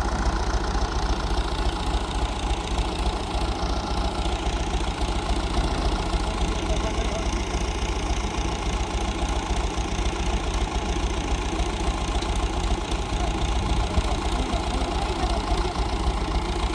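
Engine running steadily at an even speed, with a strong low pulsing and no changes in pitch or load.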